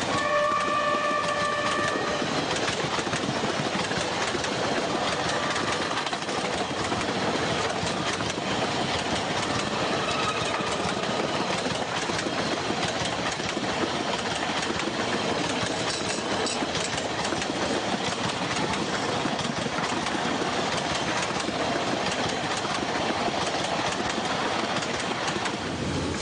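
A train running on rails, a steady dense noise throughout. A horn note sounds during roughly the first two seconds.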